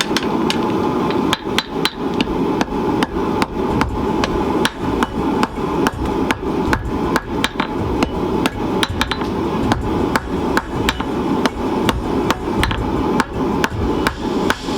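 Hand hammer striking high-carbon steel on an anvil in steady forging blows, about three a second.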